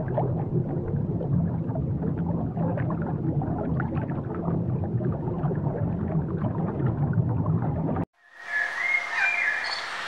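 Steady low hum with crackling, bubbling water, the ambience of an aquarium tank. It cuts off abruptly near the end, and a bird gives a few short calls over quiet forest background.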